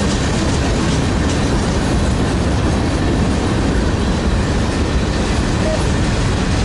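Freight train cars rolling past close by, a loud, steady noise of steel wheels on the rails with faint clicks from the rail joints.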